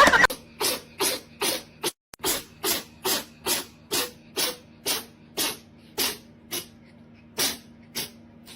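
A pet animal making a rapid series of short, breathy huffs, about two a second, over a faint steady hum.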